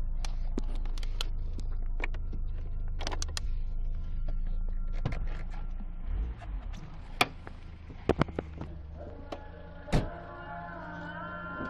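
Renault 11's four-cylinder engine idling on LPG after a cold start: a steady low rumble, quieter from about six seconds in, with a string of sharp clicks and knocks over it.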